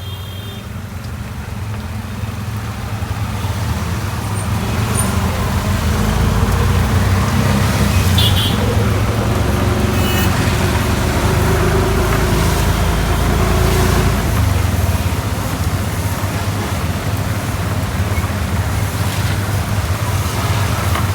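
Road traffic: a motor vehicle's engine runs close by, growing louder over the first few seconds and staying loudest through the middle before easing off a little.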